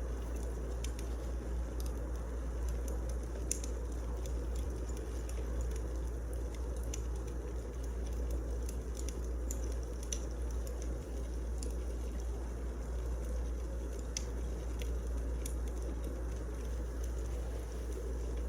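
Wood fire crackling: a steady hiss with irregular sharp pops and snaps scattered throughout.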